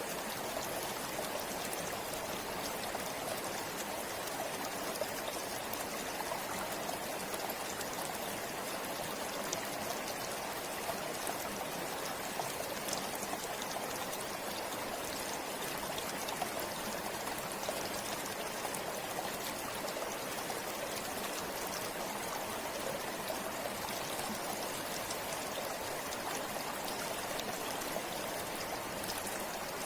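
Forest river or stream flowing over rocks: a steady, even rush of water with small splashes and trickles.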